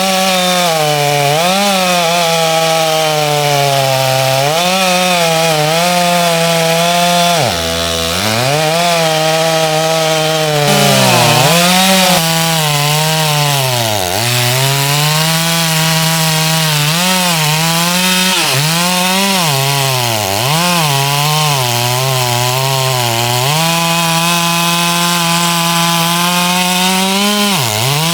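Holzfforma G660 92cc two-stroke chainsaw running at full throttle through wood, its engine pitch sagging again and again as the chain loads up in the cut and then recovering. Near eight seconds in it drops briefly to a low speed and revs back up.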